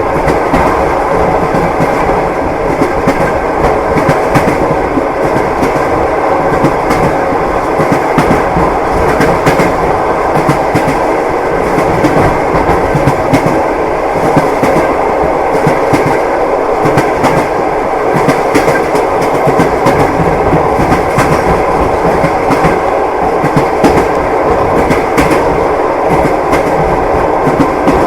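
Train wheels clattering over rail joints on the move: a steady rolling rumble with a run of repeated clacks throughout.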